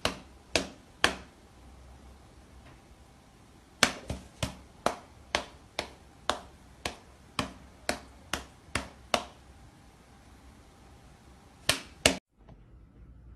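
A series of sharp taps: three near the start, then an even run of about a dozen at roughly two a second, then two more near the end.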